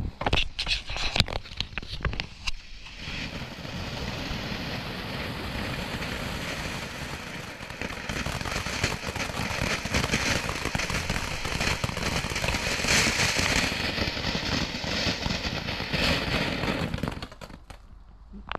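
Rainbow fountain firework burning: a few sharp clicks at the start, then a steady spray of noise for about fourteen seconds that dies away near the end.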